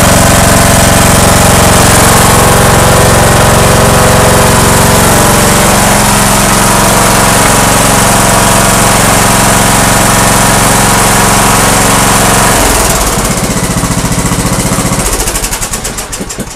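Lawn tractor engine running steadily, dropping in speed about thirteen seconds in, then shut off and coasting to a stop with slowing pulses near the end.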